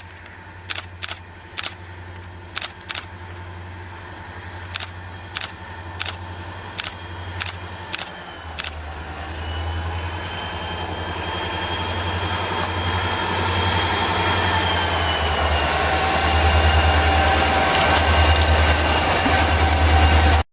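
A train running in snow, its rumble and rushing noise building steadily louder through the second half, with a steady high whine. In the first part, sharp clicks come about every half second over a low hum.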